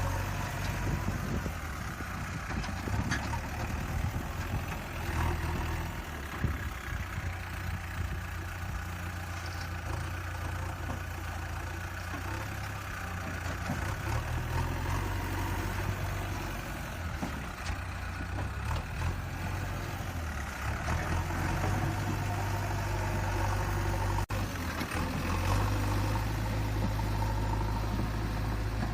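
A heavy vehicle's engine idling with a steady low rumble. A brief cut comes about 24 seconds in, and after it the engine note changes.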